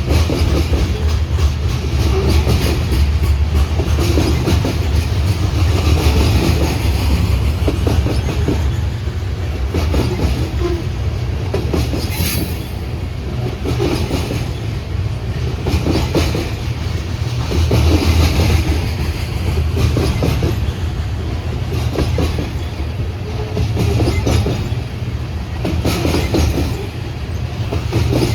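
A train rolling past, its wheels clacking steadily over the rail joints with a low rumble, and a brief high squeal about twelve seconds in.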